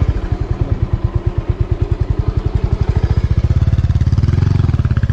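Motorcycle engine running at low revs with a rapid, even pulse, getting louder about three and a half seconds in as the throttle opens a little.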